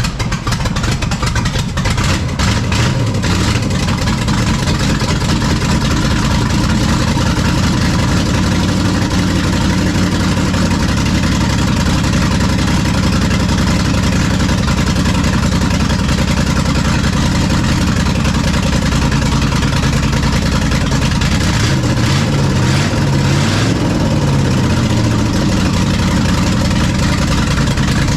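Race-built small-block V8 with a roller cam catching and firing unevenly in its first seconds, then running steadily and loud. Near the end the revs rise and fall once as the throttle is blipped.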